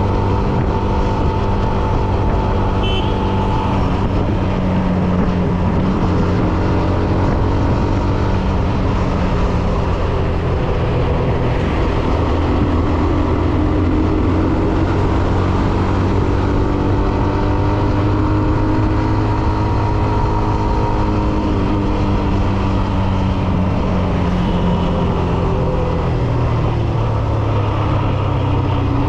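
Hero Xtreme 125R motorcycle's single-cylinder engine running under way, its pitch rising and falling gently as the revs change.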